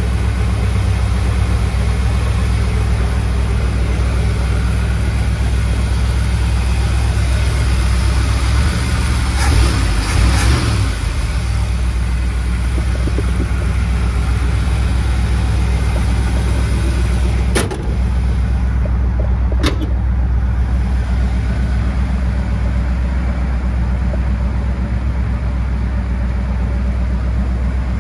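Ford 460 big-block V8 with headers idling steadily. A rougher, slightly louder stretch comes about ten seconds in, and two sharp clicks about two seconds apart come past the middle.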